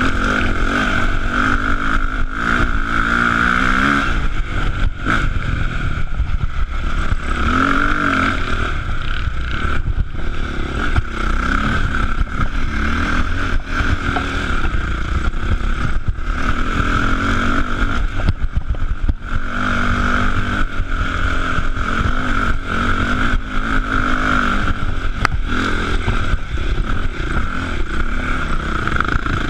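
KTM enduro motorcycle engine running hard off-road, revving up and dropping back again and again as the throttle opens and closes, with knocks and rattles from the bike over rough ground.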